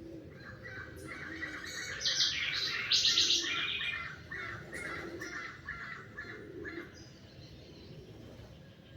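Songbirds singing: a fast run of short repeated chirps, with a higher, denser trill about two to three seconds in that is the loudest part. The song dies away after about seven seconds.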